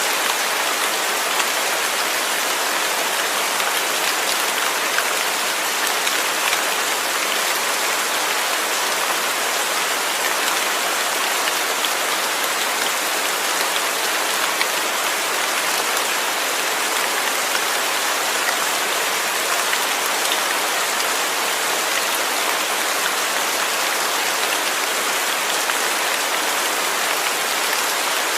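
Steady rain falling on a surface, an even hiss of many fine drops with no let-up.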